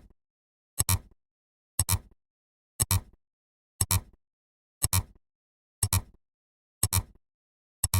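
A short, sharp double-click sound effect repeating evenly about once a second, with silence between clicks.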